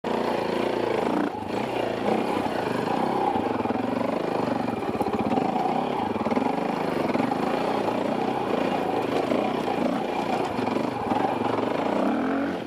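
Off-road dirt bike engine running under way, its revs rising and falling continually as it is ridden over trail, heard from a helmet camera.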